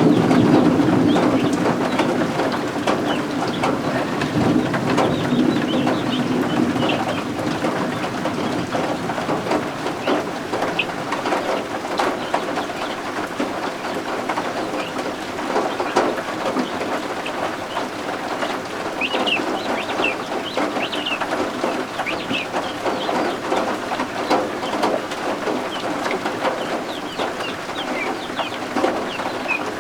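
Guinea fowl keets peeping in short, high chirps over a steady hiss of rain. A low rumble of thunder fades away over the first few seconds.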